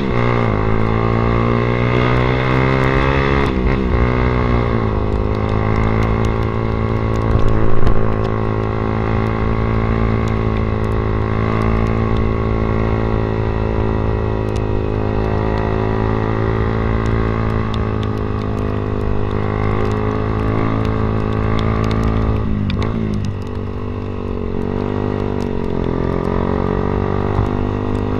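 Yamaha Vixion single-cylinder motorcycle engine running through an aftermarket SC Project exhaust while being ridden. It mostly holds a steady pitch. The pitch drops and climbs again at gear changes near the start, about four seconds in, and again a few seconds before the end. A brief loud burst comes about eight seconds in.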